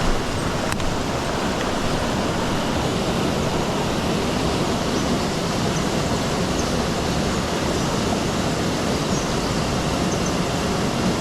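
Rushing water of a mountain stream: a steady, even rush that does not let up.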